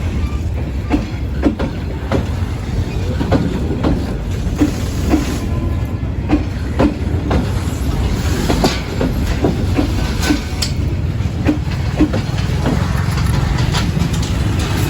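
Passenger train cars rolling slowly, their wheels clicking and knocking over rail joints above a steady low rumble.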